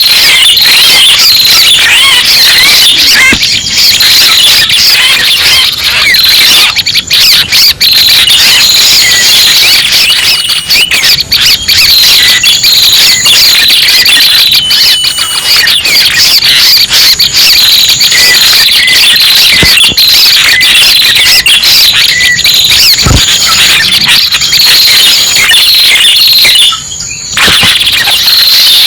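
Red-headed prenjak lure call, the kind played to draw wild birds in for trapping: loud, dense, rapid high-pitched chirping and twittering without a break, except for a brief dip near the end.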